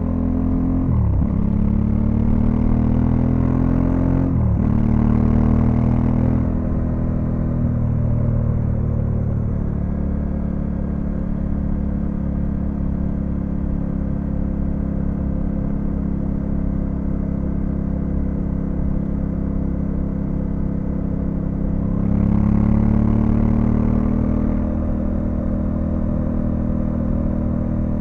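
Honda Africa Twin CRF1100L's 1084 cc parallel-twin engine pulling under acceleration, with two quick upshifts about a second and four and a half seconds in, each a sharp dip in revs before they climb again. It then settles into a steady cruise, with another short burst of acceleration near the end.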